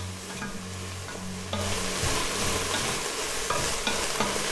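Soy chunks sizzling in a pot as the red-wine deglaze cooks down, stirred and scraped with a wooden spoon. The sizzle grows louder about a second and a half in.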